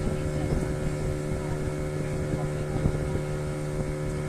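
Motorboat engine running at a steady pitch, with a low rumble of wind on the microphone.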